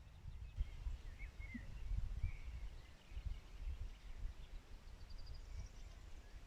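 Wild songbirds calling outdoors: short chirps and whistled notes in the first few seconds, then a quick high trill about five seconds in, over a constant low rumble.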